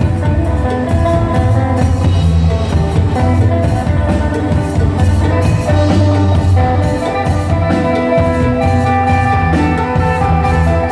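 Phin, the Isan plucked lute, playing an improvised melody of plucked notes over a low bass line and drums.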